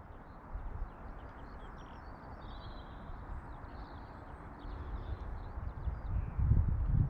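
Small birds chirping and singing over a low, uneven rumble that grows louder in the second half, like wind buffeting the microphone.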